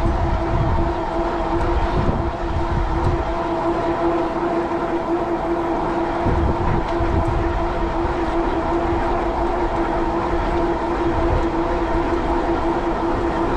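Steady, even whine of an e-bike's 750 W Bafang rear hub motor under power. Irregular low rumbles of wind buffet the microphone.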